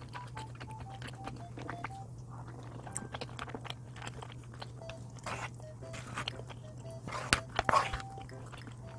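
Close-miked eating: chewing and biting on sauced roast chicken thigh and Jjapaghetti black-bean noodles, with small wet clicks, over soft background music with a simple plinking melody. The loudest sounds are noisy mouth sounds about seven to eight seconds in, as noodles are eaten.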